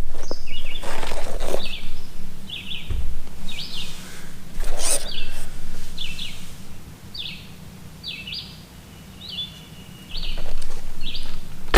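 A bird calling over and over: more than a dozen short, high chirps, a little over one a second. Two brief rustling swishes come in the first half.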